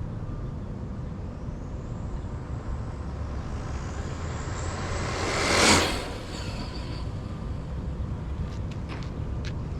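A vehicle passing close by, swelling to a brief peak a little more than halfway through and quickly fading, over steady wind rumble. A few faint clicks follow near the end.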